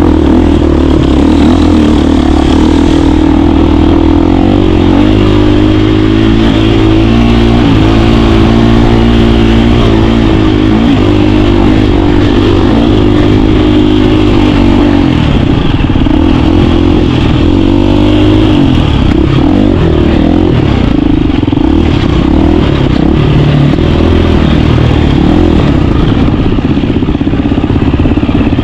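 KTM 350 dirt bike's four-stroke single-cylinder engine running hard and loud while riding, its note rising and falling with throttle and gear changes.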